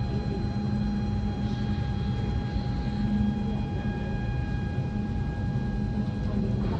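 Boat engine running steadily: a low rumble with a steady whine of several high tones above it.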